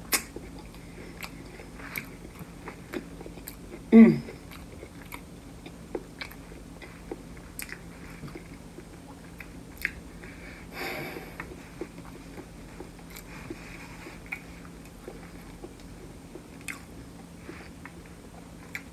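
Close-miked mouth sounds of a person eating a seafood boil: chewing with many small wet clicks and smacks, finger licking at the start. A short hummed vocal sound comes about four seconds in.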